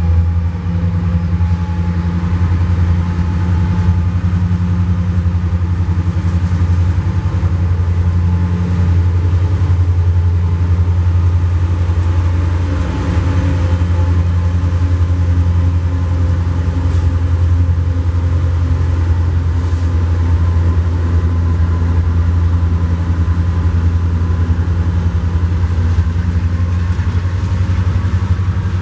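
Diesel-electric freight locomotives, an SD70MAC, an AC4400CW and an ET44AH, running past with a steady low engine drone. Double-stack intermodal container cars then roll past behind them.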